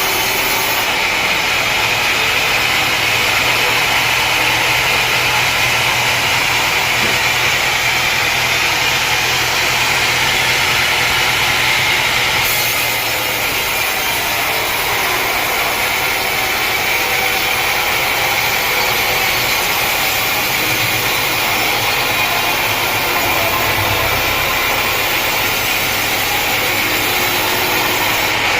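Sawmill machinery running steadily: an engine's drone under the continuous whine of a saw, with no pauses or distinct strokes.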